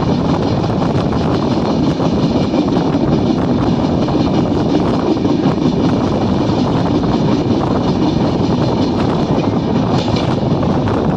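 Express train running at speed, heard from an open coach doorway: the steady rumble and rattle of the coaches on the track.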